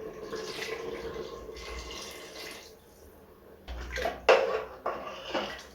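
Water being poured into a pot of chicken curry masala, a steady splashing pour that stops a little under three seconds in. After a short pause come a few sharp knocks and clatter, loudest about four seconds in.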